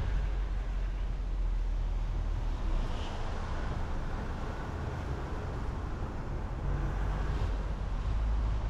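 Steady road noise of a car driving: a low tyre-and-engine rumble that eases slightly through the middle and picks up again near the end.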